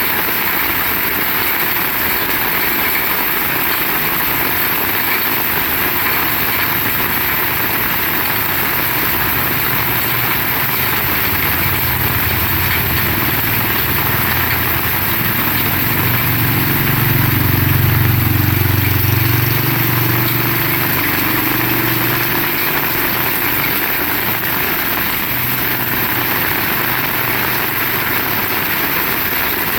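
Heavy rain falling steadily, an even hiss. About halfway through, a low rumble swells for a few seconds and fades again.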